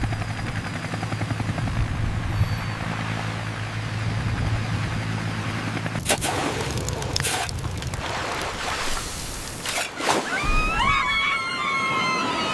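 Cartoon sound effects: a helicopter's rotors make a steady low drone with a fast pulse for about six seconds. Then comes a run of fireworks-like bangs and crackling, with several wavering high tones sounding together near the end.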